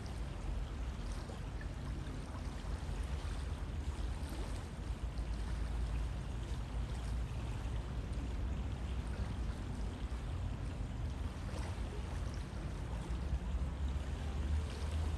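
River water flowing steadily, a constant rushing with a deep low rumble and faint splashes.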